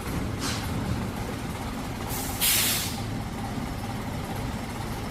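Truck engine running steadily, with one short, loud hiss of air about two and a half seconds in.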